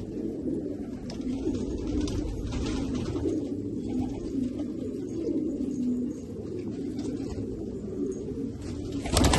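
Domestic pigeons cooing continuously, several birds overlapping in a low, warbling chorus. Just before the end a sudden louder noise comes in over the cooing.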